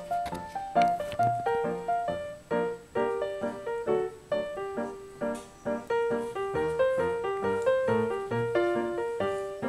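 Background piano music: a gentle melody of single struck notes over a lower accompaniment, several notes a second.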